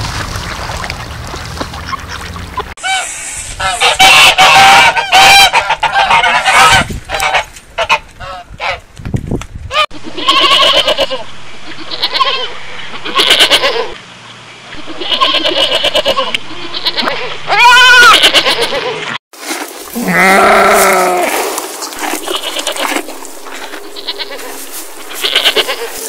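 Goat kids bleating over and over, many short wavering calls and a few longer ones, after a few seconds of wind and rippling water at the start.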